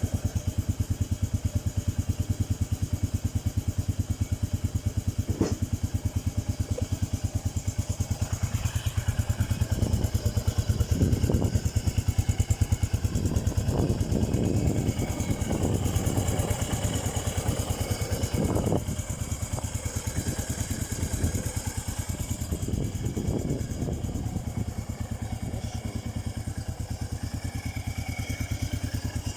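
Yamaha SR500's single-cylinder four-stroke engine idling through a Cabton-style muffler, a steady stream of exhaust pulses. It runs a little louder and rougher through the middle, then steps down slightly about two-thirds of the way through.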